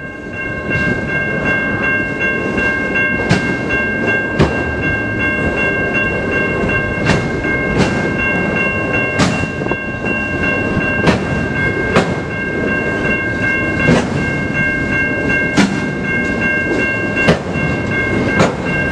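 CN freight train cars rolling slowly past over the crossing: a continuous rumble, with sharp wheel knocks about every second or so at the rail joints. A steady high ringing tone runs over it throughout.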